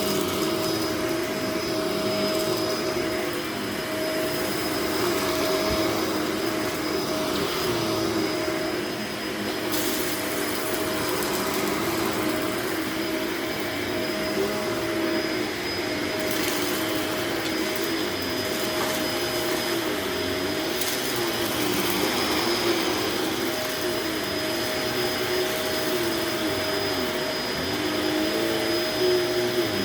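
Upright vacuum cleaner running steadily on a dirty carpet, its motor tone wavering slightly in pitch.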